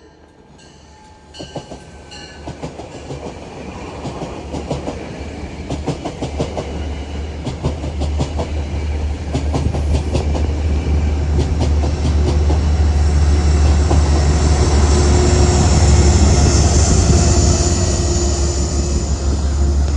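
Passing train: wheels clicking over rail joints, the clickety-clack starting faint and growing louder and denser as the train comes closer, then a steady loud rumble of cars going by.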